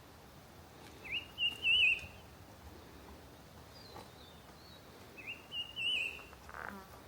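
A songbird singing the same short phrase twice, about four seconds apart: a quick rising note, then a warbling trill. Under it is a steady hiss of forest background noise.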